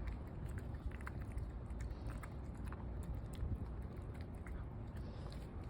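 A cat eating from its bowl: many quick, irregular crunching clicks as it chews its food.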